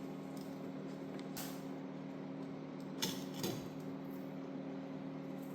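A few light clinks and knocks from parts being handled, over a steady low hum.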